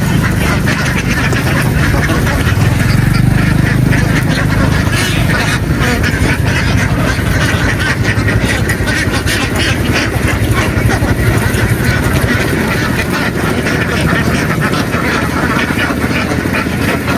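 A flock of domestic ducks quacking continuously in a dense, overlapping chorus. A low motor hum underneath fades out within the first few seconds.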